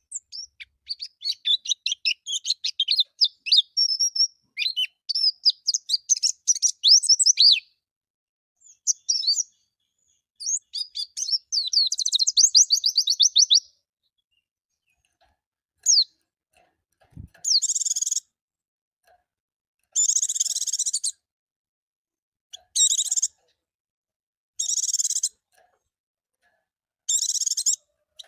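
Pleci (white-eye, Zosterops) song: rapid, high twittering with fast trills in two long bouts, then a run of short buzzy bursts about a second long, repeated every two to three seconds.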